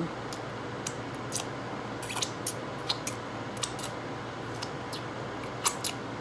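Close-up chewing of a crunchy fried-shell beef taco with shredded cabbage: irregular crisp crunches, about a dozen, the loudest two near the end.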